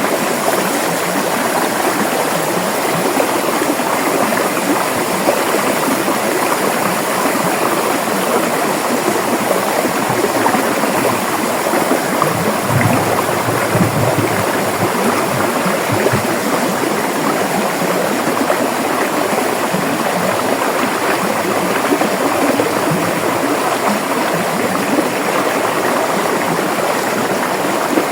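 River water flowing: a steady, even rush of a stream over rocks, with a little deeper rumble in the middle.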